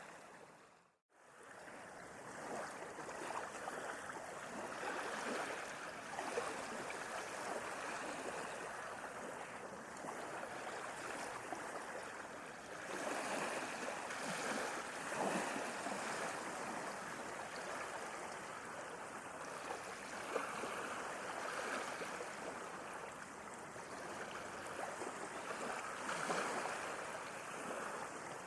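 Sea waves washing, a steady water noise that swells and eases, with a brief drop to silence about a second in.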